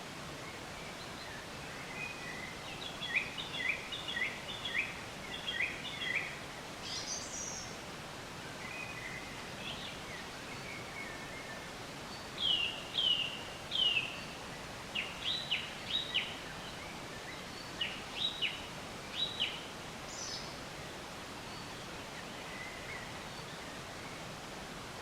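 Songbirds singing in groups of quick, sharply falling chirps, with pauses between the groups, over a steady background hiss.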